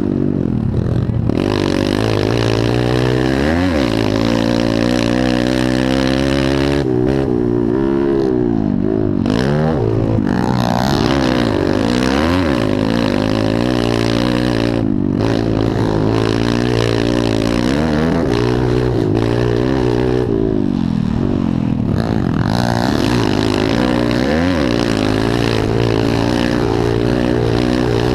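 Pit bike engines racing, revving hard with the pitch rising and falling again and again through the gears and over the jumps. At times two engines at different pitches overlap.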